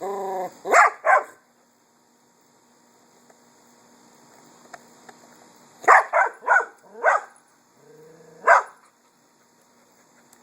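A dog whines briefly with a falling pitch, then barks twice. After a quiet stretch of about four seconds it gives four quick barks, then a short low grumble and one more bark.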